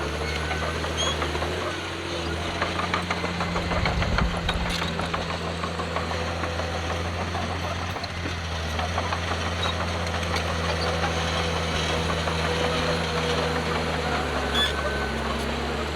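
Diesel engine of heavy earthmoving machinery running steadily, its pitch shifting a little a couple of times, with scattered clicks and rattles and a low thump about four seconds in.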